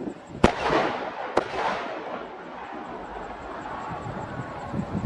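Aerial firework shells bursting: two sharp bangs about a second apart near the start, each trailing off over about a second.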